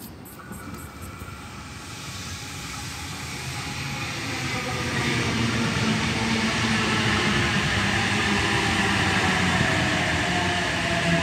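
A four-car Oscar H-set electric multiple unit arriving at the platform. It grows steadily louder as it draws in, with a whine that slowly falls in pitch as the train slows.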